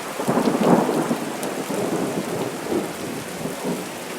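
Heavy rain pattering densely on nearby surfaces, a steady hiss made of many small drop impacts, a little louder in the first second and then easing slightly.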